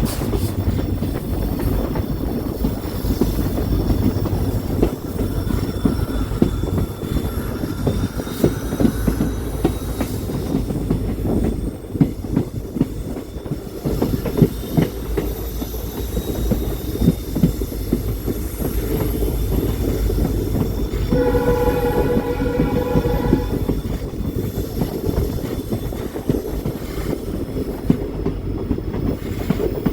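Indian Railways passenger train running, its wheels rumbling and clicking over the rail joints. About two-thirds of the way through, the train horn sounds once for two to three seconds.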